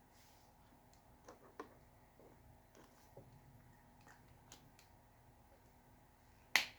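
Pen-and-paper drawing sounds: faint scratching strokes and light ticks of a nib on paper, with one sharp click about six and a half seconds in.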